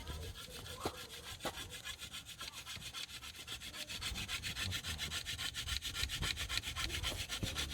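Hand drill fire-lighting: a wooden spindle spun back and forth between the palms against a wooden hearth board, a fast, even rasping of wood on wood that grows louder as the drilling goes on.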